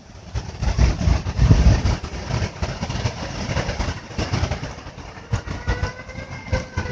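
Strong gusting hurricane wind buffeting the microphone, a rumble that surges and eases with each gust, loudest in the first two seconds. A faint high whistle joins in near the end.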